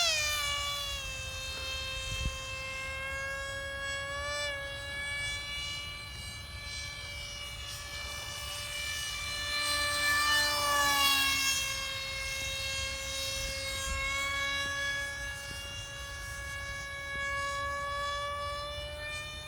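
Small drone's propellers and motors whining steadily in flight. The pitch drops just after the start, and a second whine slides down and back up about halfway through.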